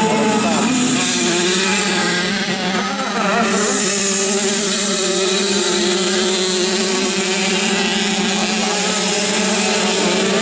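Several small 50cc two-stroke motorcycle engines buzzing at once while racing, their pitches rising and falling as the riders open and close the throttle.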